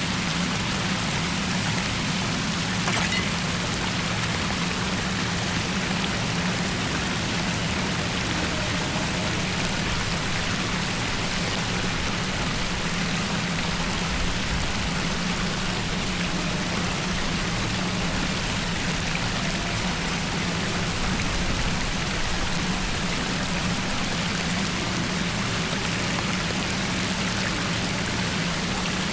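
Floodwater draining into a cleared storm drain: a steady rush of water with a low, even hum beneath it.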